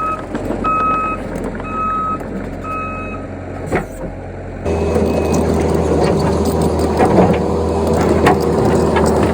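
Heavy equipment backing up: its reversing alarm beeps about once a second over the running engine for the first three seconds or so, then stops. From about halfway through, the engine runs louder and steadier.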